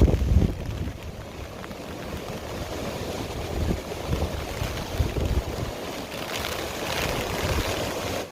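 Steady rush of wind and water noise, louder for the first second, then settling.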